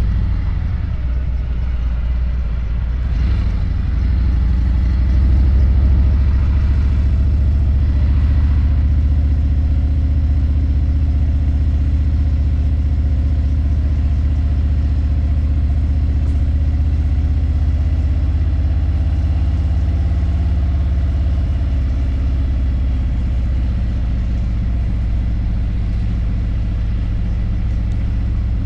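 Harley-Davidson motorcycle engine running steadily while riding, a deep, even hum with a slight swell a few seconds in.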